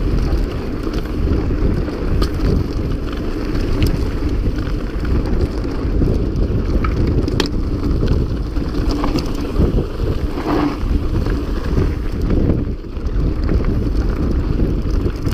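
Wind rushing over the microphone and the rumble of a mountain bike rolling over rough ground, with scattered sharp clicks and knocks from the bike.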